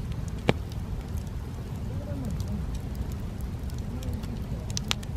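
Wood campfire crackling: scattered sharp pops over a low, steady rush of the burning fire, the loudest pop about half a second in and another near the end.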